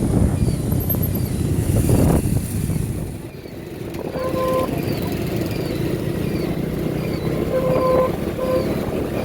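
Motorbike engines and street traffic heard while riding, with short horn beeps about four seconds in and twice more near the end.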